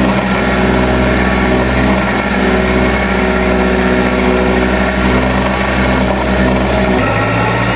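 Case 580B backhoe engine running steadily under a constant throttle. Its low note shifts slightly about seven seconds in.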